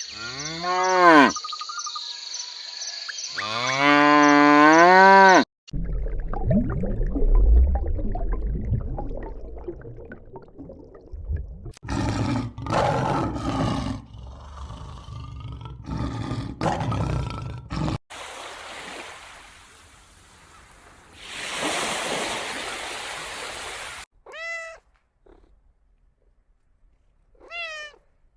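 A run of different animal calls cut one after another. First come long pitched calls that rise and fall, then a low rumbling call, then rougher noisy calls and a hissing stretch, and near the end a few short falling cries.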